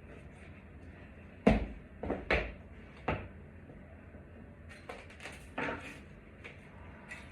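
A handful of sharp knocks and clunks, the loudest about a second and a half in and three more over the next two seconds, then several fainter clicks.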